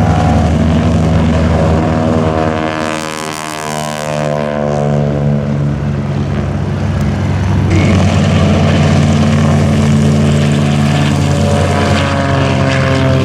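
Piston-engined propeller airplane flying low past the crowd: its engine and propeller drone drops in pitch as it goes by, and a steady engine drone carries on afterwards.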